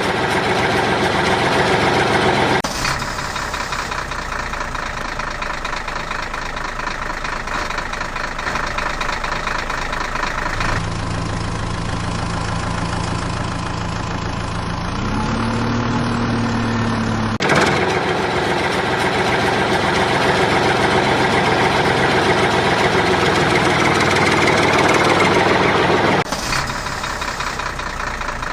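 Heavy vehicle engine sounds in several spliced sections that cut abruptly from one to the next. In one section a steady low engine hum rises in pitch for a moment, like a brief rev.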